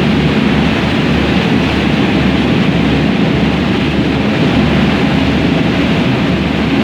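Passenger ferry underway, heard aboard: a steady low drone of the engines with a rushing noise of water and air, unchanging throughout.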